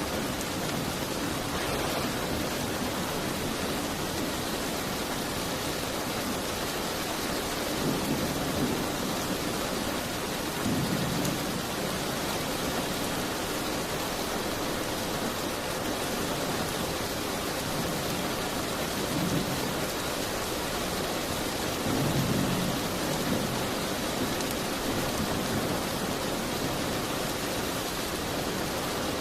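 Steady rain hiss, with a few brief low rumbles rising and falling about a quarter, a third, two-thirds and three-quarters of the way through.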